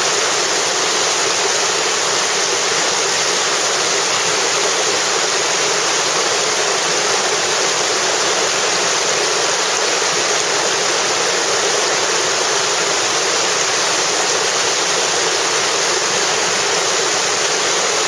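Whitewater rapids rushing steadily, a loud, even roar of churning river water with no let-up.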